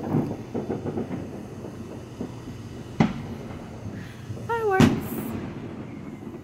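Distant fireworks exploding: a sharp bang about three seconds in and a louder one near the end, over a steady low rumble.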